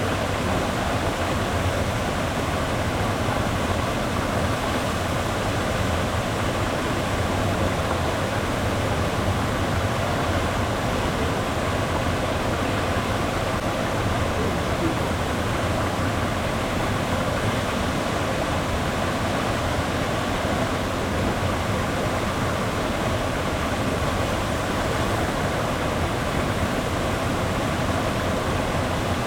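Melincourt waterfall, a loud, steady, unbroken rush of falling water.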